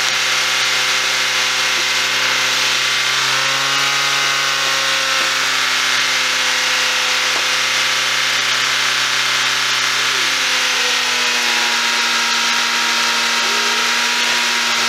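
Car petrol engine running with canola (vegetable) oil as its engine oil, a steady running note whose speed rises a little about three and a half seconds in and eases back down near the end.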